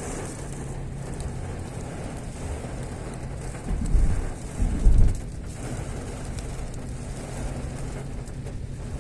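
Fairly heavy rain falling steadily, with two short, loud low rumbles about four and five seconds in.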